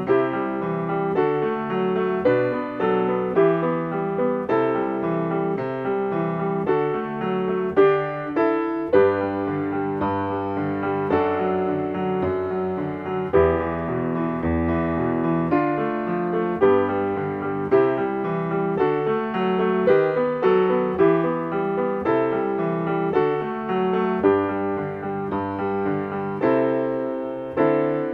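Solo piano playing a choral accompaniment in a steady, moderate tempo, with chords and bass notes struck in a regular pulse and no singing.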